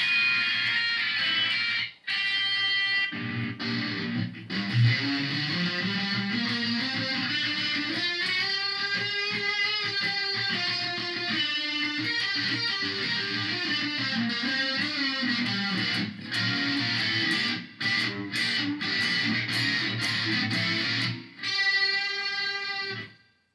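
Electric guitar played through a Korg A5 multi-effects processor: a sustained sound demo of held notes and chords, with a long slow rise and fall in pitch in the middle, stopping just before the end.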